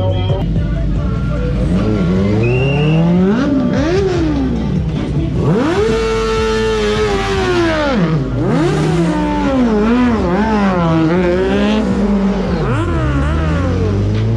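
Car engine revving hard again and again, its pitch climbing and falling, with one long high rev about halfway through, over a steady low engine hum.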